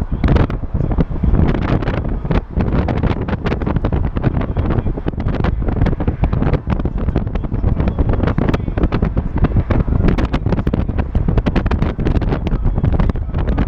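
Heavy wind buffeting the microphone, a constant low rumble with rapid irregular gusts.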